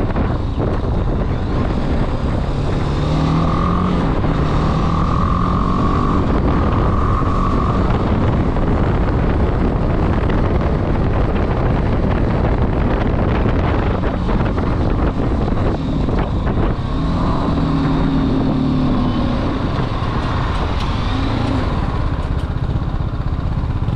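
Motorcycle riding: steady wind rush on the microphone over the engine's rumble, with the engine note coming through more clearly twice, a few seconds in and again about two-thirds through.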